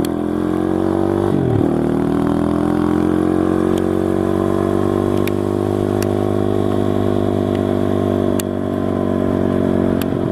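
SSR TR160 motorcycle engine pulling hard under way: the revs climb, drop sharply about a second and a half in at a gear change, then rise again slowly and hold steady.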